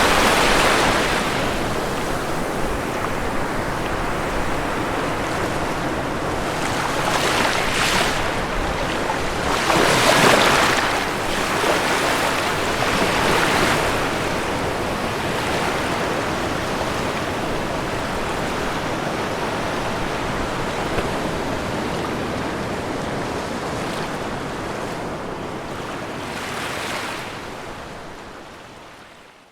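Ocean waves washing onto a shore: a continuous rushing surf, with louder surges as waves break several times. It fades out near the end.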